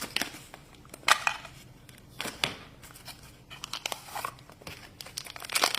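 Toy packaging being unwrapped by hand: intermittent crinkling and rustling of wrapping, with light clicks and taps in between.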